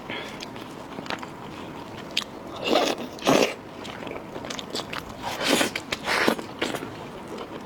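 Close-miked chewing and biting of food, with scattered short crunchy strokes and louder bouts about three seconds in and again around five to six seconds in.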